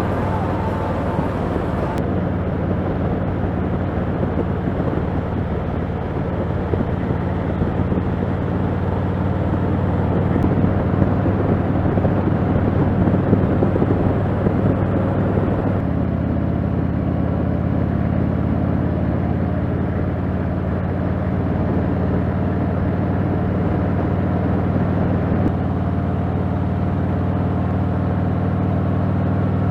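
Motorcycle engine running steadily while riding, with a change in the engine note about halfway through.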